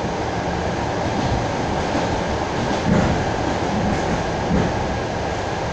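Electric commuter train (elektrichka) running along the line, heard from inside the carriage: a steady rumble of wheels on rail. It grows briefly louder twice, about three and four and a half seconds in.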